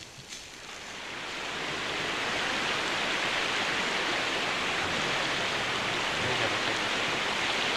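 Steady rushing of water, fading in over the first two seconds and then holding level.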